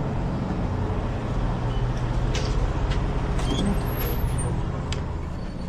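Steady low hum of idling diesel truck engines, with a few light clicks about halfway through.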